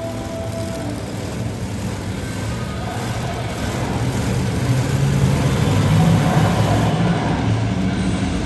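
Monster truck engine running hard in an arena, louder and revving up from about halfway through.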